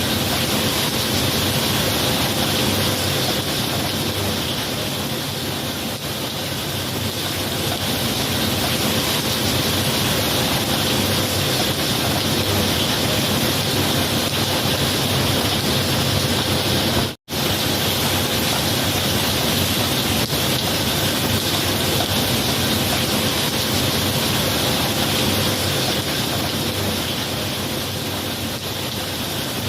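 Steady heavy rain, an even wash of noise. It cuts out for an instant about two-thirds of the way through.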